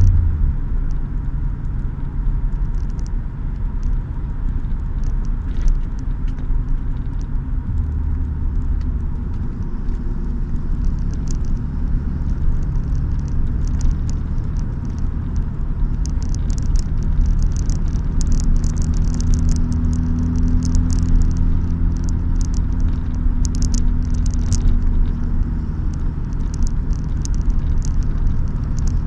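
Car engine running steadily while driving, heard from inside the cabin as a low drone with road noise; the engine note shifts about eight seconds in. An intermittent crackly hiss comes and goes in the second half.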